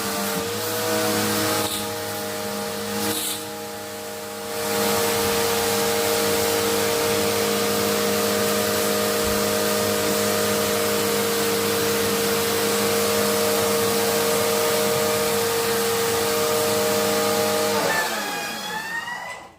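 Electric pressure washer running, its motor's steady whine under the hiss of the water spray. The spray eases for a couple of seconds near the start, and the motor winds down and stops near the end.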